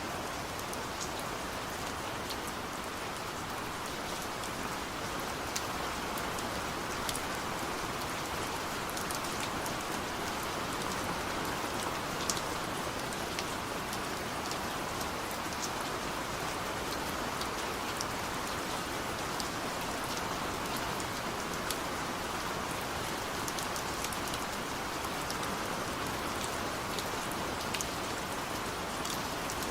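Steady heavy rain falling in a forest: a dense, even hiss with the sharp ticks of single drops landing close by.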